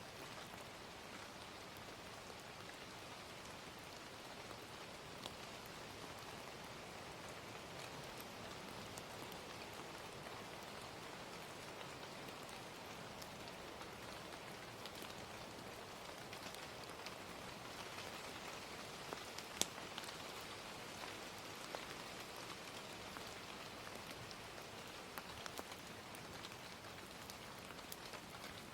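Gentle rain falling steadily, with scattered small crackles of a wood fire; one sharper crack about twenty seconds in is the loudest sound.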